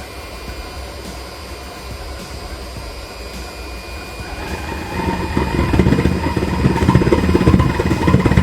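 Blower-fed waste-oil burner, lit on diesel, running with a steady low rumble and a thin high whine. About halfway through the flame picks up and the burner gets much louder, a flickering rumble as it fires up.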